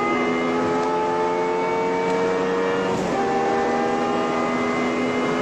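BMW M5 E60's 5.0-litre V10 pulling hard under acceleration, heard from inside the cabin. Its note climbs steadily, drops at an upshift about three seconds in, then climbs again.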